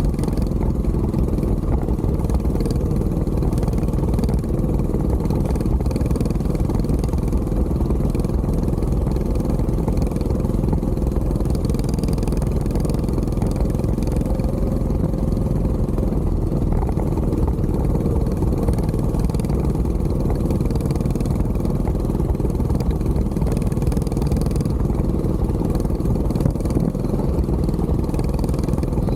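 Mini bike's small engine running steadily during a ride, holding an even speed with no clear revving.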